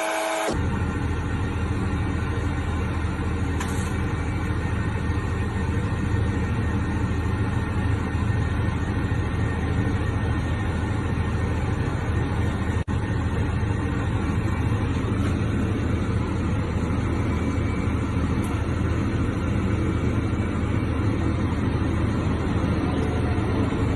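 A car engine running hard at steady high revs, a loud continuous noise with a deep hum that barely changes.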